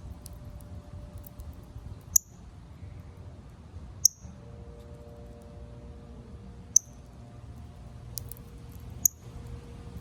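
Northern cardinal giving sharp, high chip calls, four single chips about two seconds apart, over a steady low background rumble.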